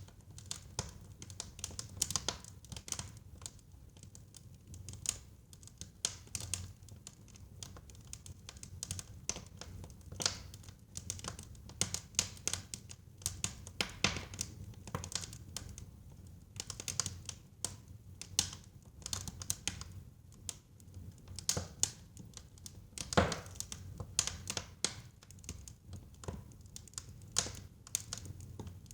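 Wood fire burning in a fireplace: a low steady rumble under dense, irregular crackles and pops, with one louder pop about 23 seconds in.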